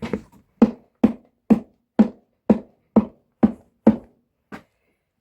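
A shoe being knocked against a hard surface to clear debris out of it: about ten dull knocks at roughly two a second, stopping near the end.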